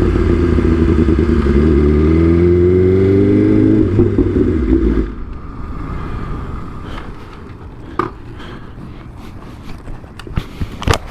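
Motorcycle engine running, its pitch rising for a couple of seconds, then switched off about five seconds in. After that, a few scattered knocks and scrapes.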